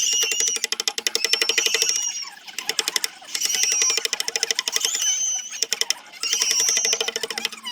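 A power sanding tool working a zelkova root, running as a fast pulsing chatter with a wavering whine, in three passes of about two seconds each with short choppy lulls between.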